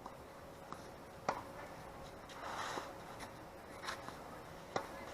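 A few sharp knocks of tennis ball impacts, the loudest about a second in and another near the end, with a brief scuffing sound in between.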